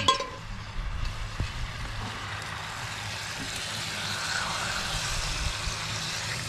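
Roast meat and vegetables sizzling in a cast-iron camp oven as they are turned with metal tongs and a spatula, with a ringing metallic clink of the tongs on the pot at the very start. A steady low engine hum, like a vehicle idling, runs underneath.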